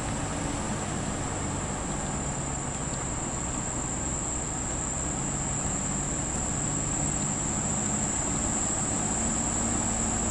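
Vehicle engine running with a low steady hum and road noise, with a constant high-pitched insect chorus of crickets or katydids over it.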